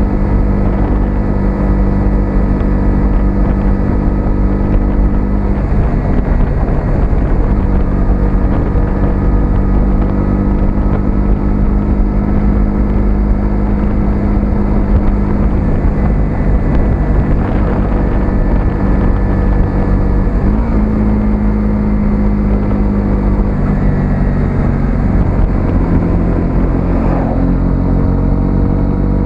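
125cc single-cylinder motorcycle engine running under way, with rumbling wind noise on the microphone. The engine pitch holds steady for most of the time, then dips and climbs again in the last third as the bike slows and speeds back up.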